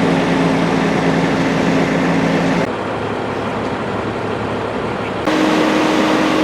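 Heavy trucks running: steady engine noise with a constant hum over it. The sound changes abruptly twice, the hum dropping out about a third of the way in and a higher hum returning near the end.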